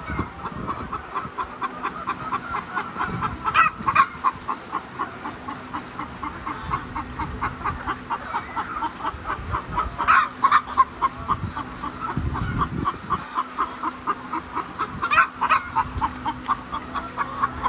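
Laying hens clucking continuously, many short calls a second, with a louder squawk-like call every few seconds. A steady low hum runs underneath.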